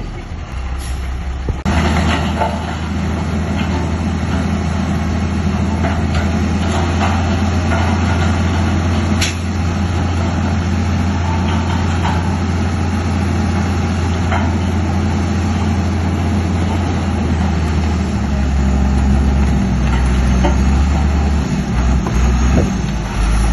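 Bulldozer's heavy diesel engine running steadily, with scattered sharp clanks and knocks over it. The engine note steps up about two seconds in and changes pitch again near the end.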